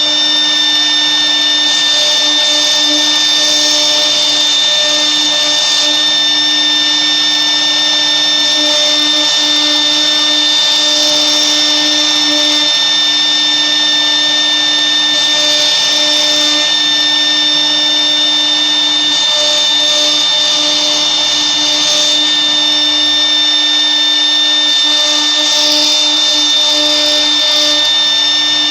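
CNC router's spindle running steadily, a high even whine over a constant hiss.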